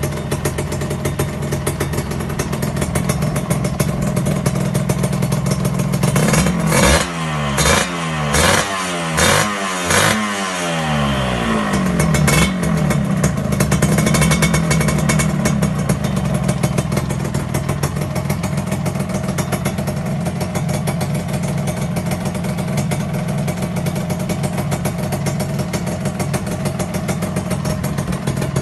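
Two-stroke underbone motorcycle with an aftermarket racing exhaust idling. After several seconds it gives a quick run of throttle blips, each rising and falling in pitch, then settles back to a steady idle.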